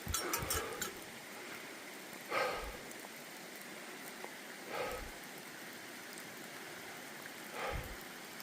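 Steady light rain hiss, with three soft thuds about two and a half seconds apart.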